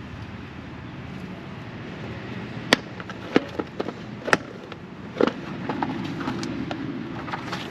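Tools and small parts being handled during a wiring job: a few sharp, separate clicks and knocks over a steady low background hum.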